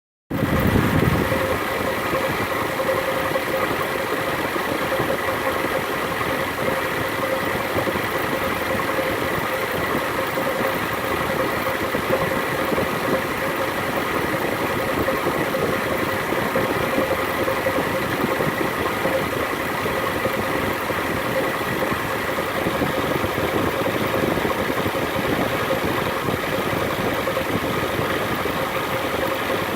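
Toyota Land Cruiser FZJ80's 4.5-litre 1FZ-FE straight-six idling steadily, with a steady noise that the owner puts down to a slightly wobbling crankshaft harmonic balancer.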